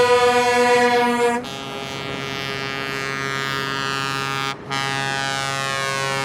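Truck air horns sounding in long, held blasts. The horn chord changes about a second and a half in, and there is a short break in the sound a little before the end.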